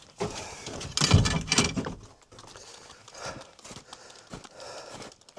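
Irregular knocks and scuffing footsteps as wood is handled, with a louder burst of knocking and scraping about a second in.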